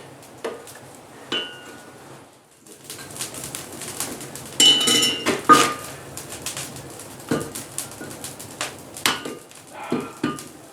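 Irregular clanks and clinks of steel tools and workpiece being handled at a forge, a few of them ringing briefly, with one louder clatter about halfway through. A faint steady low hum runs underneath.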